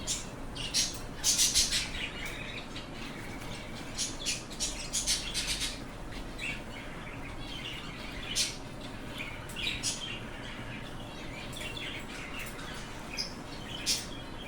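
Small caged ornamental birds chirping, many short high chirps coming irregularly, some in quick clusters.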